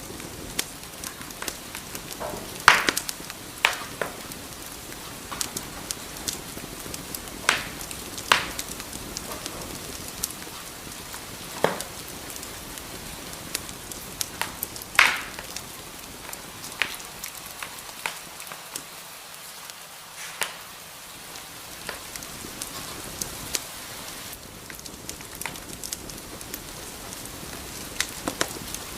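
Wood fire burning in a fireplace: a steady soft hiss with frequent small crackles and several louder, sharper pops at irregular intervals.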